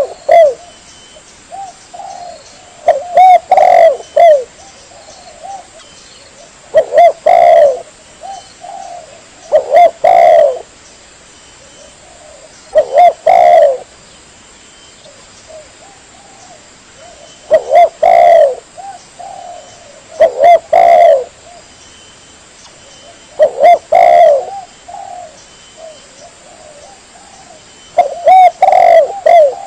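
Spotted dove (tekukur) cooing, as played for a bird-lure call: short phrases of low coos repeated about every three to four seconds, with a longer gap near the middle.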